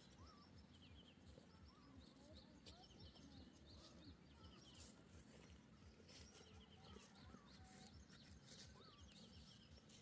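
Faint scattered bird chirps over quiet outdoor background noise.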